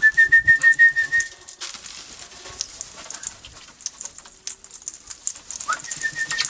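Wild parrots crowding in to be hand-fed: a whistle rises and settles into a warbling held note, twice, over a steady scatter of clicks, rustles and wing flutters.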